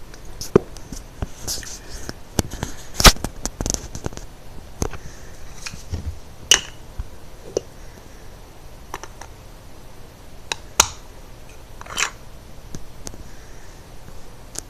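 Irregular sharp clicks, snaps and short rustles of packaging and plastic parts being handled by hand, with one louder snap about three seconds in.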